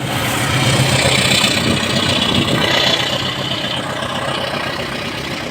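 Diesel locomotive of a passenger train running, its engine a steady low drone under the noisy rumble of the moving train.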